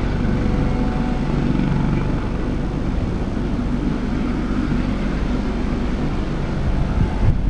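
Eurocopter AS365 N3 Dauphin helicopter running, its twin turboshaft engines giving a steady high whine over the rotor noise. Wind buffets the microphone near the end.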